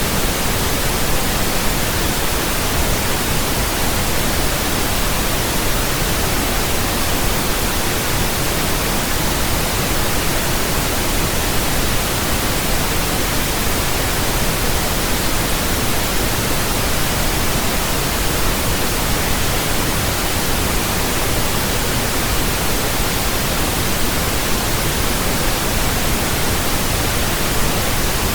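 Steady, unbroken pink noise: an even hiss spread across all pitches, deeper than white noise, with no change in level.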